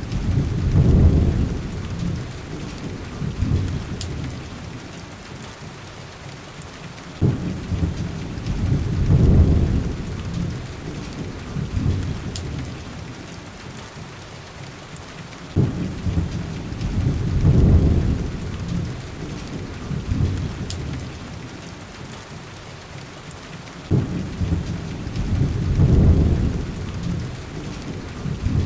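Heavy rain pattering steadily, with four low thunder rumbles evenly spaced about eight seconds apart, each starting with a sharp crack and swelling for about two seconds before fading.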